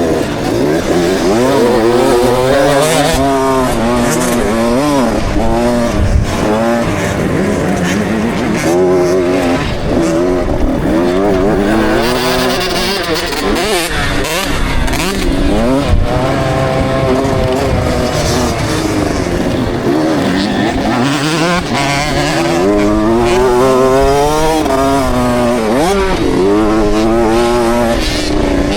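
KTM 65 SX two-stroke motocross bike engine, heard from the rider's helmet camera, revving up and falling back over and over as it is ridden hard.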